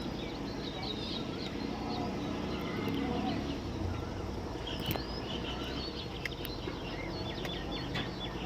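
Many birds chirping and chattering at once: a dense run of short high chirps, busiest in the second half, over a steady low background rumble.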